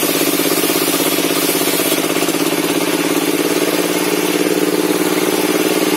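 Log-sawing circular-saw bench running steadily, a constant mechanical drone with no breaks.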